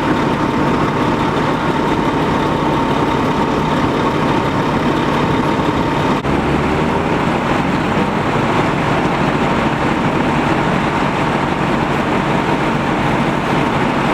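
Large vehicle engine idling steadily, with a thin steady tone that stops about six seconds in.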